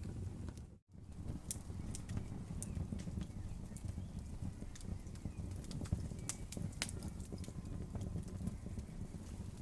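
Wood campfire crackling, with irregular sharp snaps and pops over a steady low rumble. The sound cuts out for a moment about a second in.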